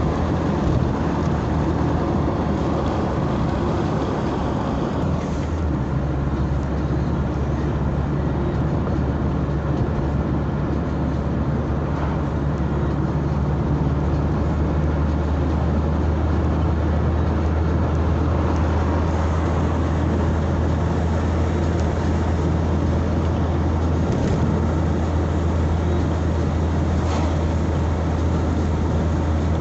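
Motor vehicle driving along a road: a steady low engine drone with road noise, the engine note shifting about five seconds in.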